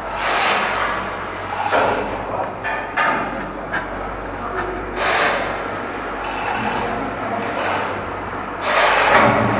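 Irregular scraping and rubbing strokes of hand tools on metal, five or so, the loudest near the end, over a steady low machinery hum.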